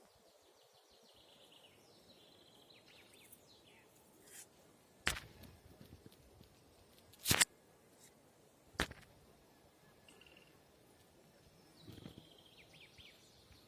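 Faint forest ambience with small birds calling in quick series of short falling chirps, early on and again near the end. Three sharp clicks or snaps come about two seconds apart in the middle, and these are the loudest sounds.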